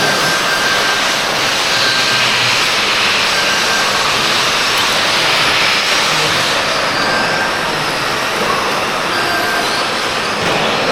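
Radio-controlled model racing trucks running at speed around the track, a steady high-pitched whine of motors and tyres.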